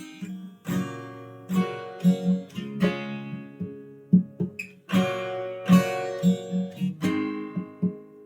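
Acoustic guitar music, strummed and plucked chords in a steady rhythm.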